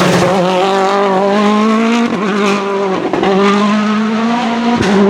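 Citroën DS3 WRC rally car's 1.6-litre turbocharged four-cylinder engine running hard at high, fairly steady revs, with short dips in engine note about two and three seconds in and again near the end.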